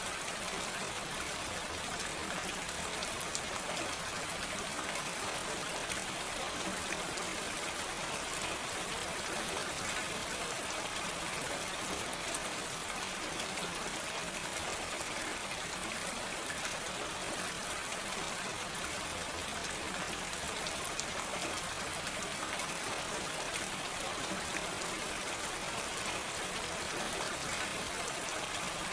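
Steady, gentle rain falling, an even hiss of many small drops with no thunder.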